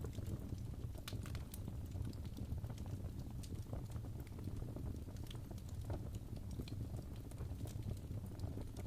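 Fire crackling in a fireplace: irregular sharp snaps and pops over a steady low rumble.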